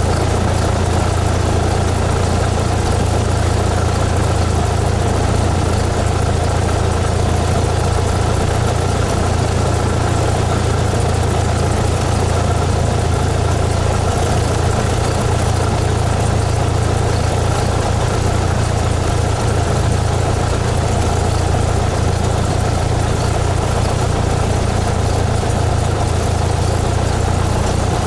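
Cessna 172S's Lycoming IO-360 four-cylinder engine and propeller running at a constant setting: a steady, unchanging drone with a strong low hum.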